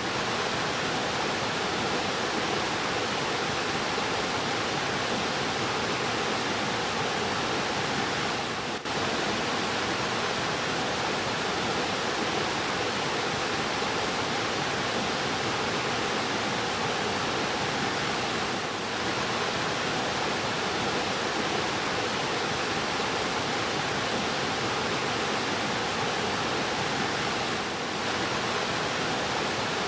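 Fast-flowing river rushing steadily, an even dense water noise, with three brief dips in level.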